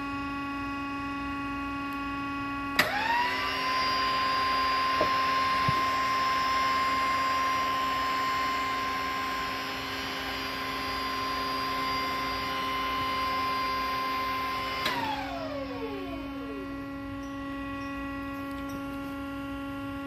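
Electric forklift hydraulic pump motor starting with a click about three seconds in, winding quickly up to a steady whine as the lift cylinder raises, running for about twelve seconds, then winding down in pitch. A steady electrical hum runs underneath.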